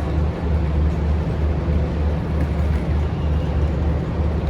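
Scania Astromega double-decker coach's engine running, a steady low rumble with a faint hum above it.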